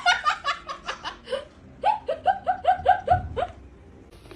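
A person laughing hard in two runs of quick, repeated 'ha-ha' syllables, with a short pause about a second and a half in.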